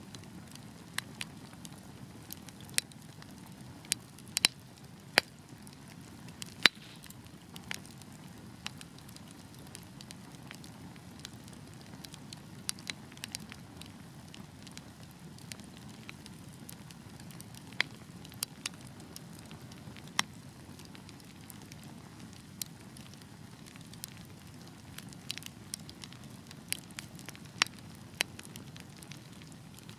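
Wood fire burning in a fireplace: a steady low rush of flames with irregular crackles and sharp pops, a few louder snaps among them.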